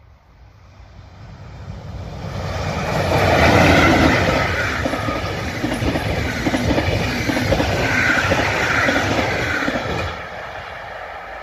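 Locomotive-hauled passenger train passing close by at speed. The rush builds over the first few seconds as the train arrives, peaks about four seconds in, then carries on as steady wheel-on-rail clatter from the coaches, and drops away about ten seconds in as the last coach goes by.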